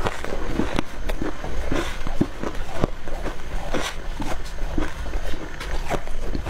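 Dry deep-freezer frost chunks crunching as they are bitten and chewed, in a string of irregular crisp crunches, a few each second.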